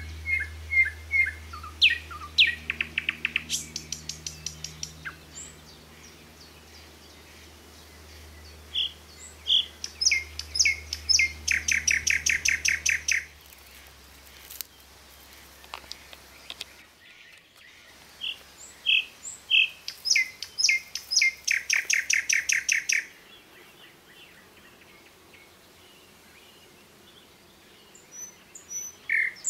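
A songbird singing the same song over and over, about every nine seconds: a few separate high notes, then a fast run of notes lasting about two seconds.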